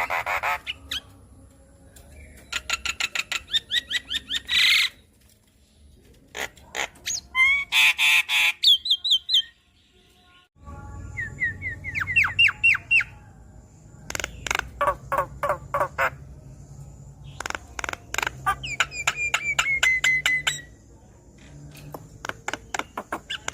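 Javan myna singing: bursts of rapid clicks and rattles mixed with harsh squawks and short whistled slides, broken by brief pauses.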